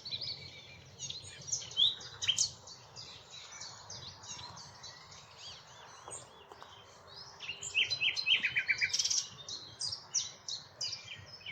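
Common nightingale singing in varied phrases, with a loud run of rapidly repeated notes from about eight seconds in.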